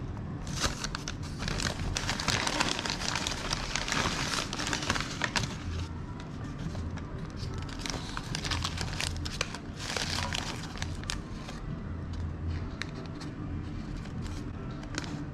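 Paper food packaging being handled, crinkling and crackling in two busy spells, the first and longest in the first few seconds and a second about halfway through, over a steady low hum.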